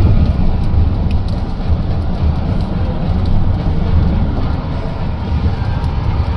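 Steady low rumble of a car driving through a storm, with scattered light ticks.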